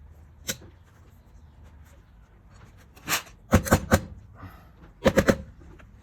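Sharp knocks and clacks of hard objects being handled and set down. There is one about half a second in, a quick cluster around three to four seconds in, and three rapid ones about five seconds in.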